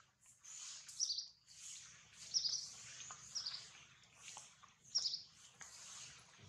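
Small birds chirping: several short, high chirps that drop slightly in pitch, a second or so apart, over a steady high hiss of background outdoor sound.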